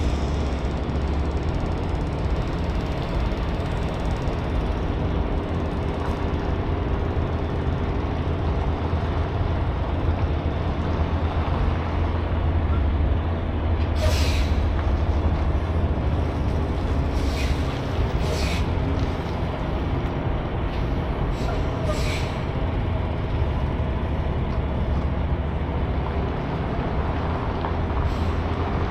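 Semi truck's diesel engine idling steadily, with a few short hisses of air partway through.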